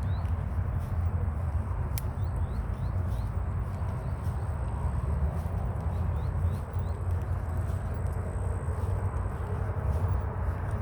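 Outdoor ambience: a steady low rumble, like wind on the microphone, with short high rising chirps in quick runs of four or five, heard a few times. There is one sharp click about two seconds in.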